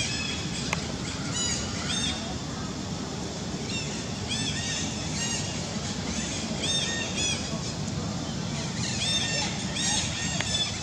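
Birds calling: short, repeated arched chirping notes in bursts every second or two, over a steady outdoor background hum.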